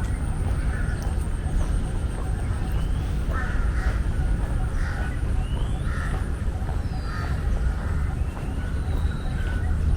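Park birds calling: a harsh call repeats about once a second from a few seconds in, with short gliding chirps higher up, over a steady low rumble.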